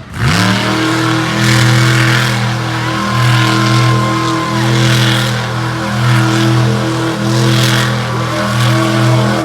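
Monster truck engine running at full throttle. The revs climb sharply just after the start and are held high with small surges, then fall away near the end.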